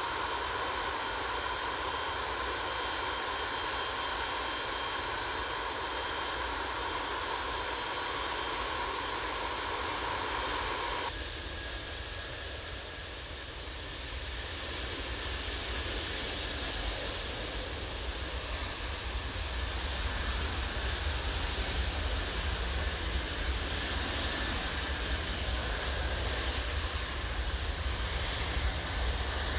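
Antonov An-124-100's four Progress D-18T turbofan engines running at low power while taxiing, a steady whine over a rumble. About eleven seconds in the sound changes abruptly: the whine drops away and a broader engine rumble builds gradually louder.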